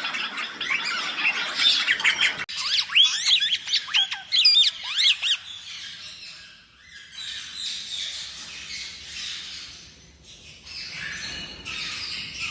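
Captive parakeets squawking and chattering, with a burst of sweeping, rising and falling whistled calls from about two and a half seconds in, then softer chatter.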